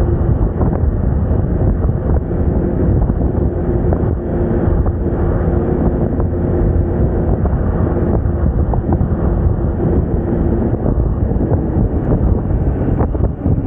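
Wind buffeting the microphone over the steady drone of a Moda Moca 110 scooter being ridden along the road, with engine and road noise underneath.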